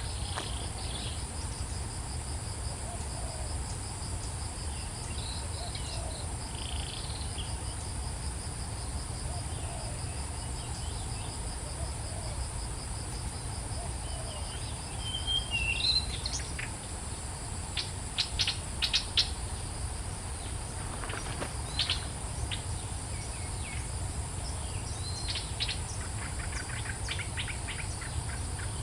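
Insects trilling steadily at a high pitch, with a bird chirping and calling in short clusters from about halfway through to near the end, over a low rumble.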